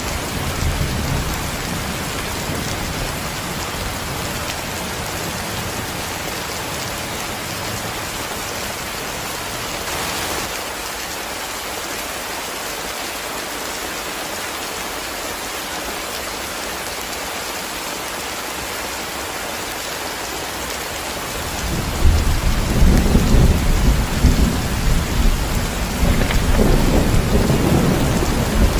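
Heavy rain falling steadily, with a low rumble of thunder rolling in about three quarters of the way through and staying loud to the end.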